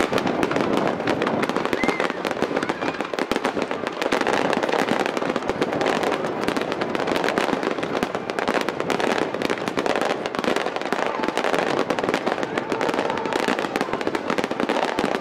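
Aerial fireworks going off in a rapid-fire barrage, many bursts and pops overlapping into a continuous dense crackle with no pause.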